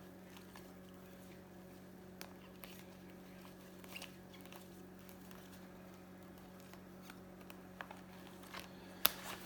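Faint scattered clicks and taps of baseball cards in plastic sleeves being handled and sorted, over a steady low hum, with one sharper click a little before the end.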